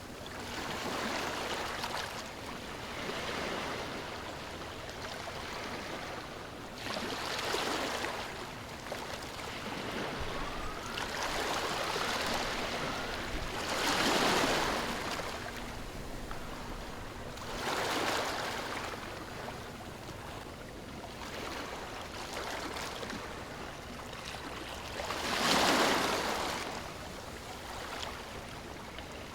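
Ocean surf: waves breaking and washing in, swelling up every few seconds over a steady hiss of water, with the loudest surges near the middle and near the end.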